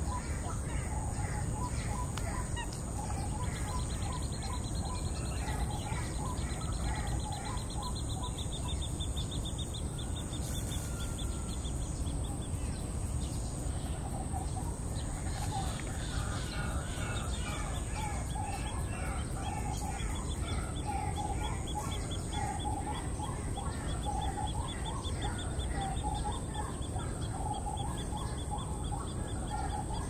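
Birds chirping and calling repeatedly, with a rapid high-pitched trill that runs for several seconds at a time, over a steady high whine and background noise.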